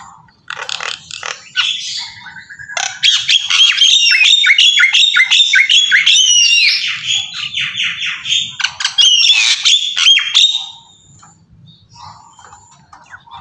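A bird calling in a fast, dense run of high chirps and squawks for about ten seconds, then falling quiet near the end.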